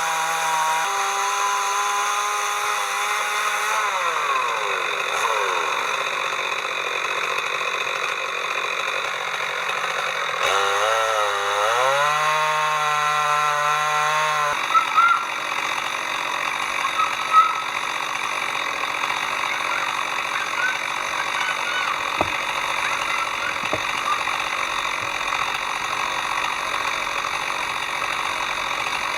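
Chainsaw running at full throttle under load, ripping a log lengthwise in an Alaskan chainsaw mill. Its pitch sags and wobbles for a few seconds around the middle, then holds steady.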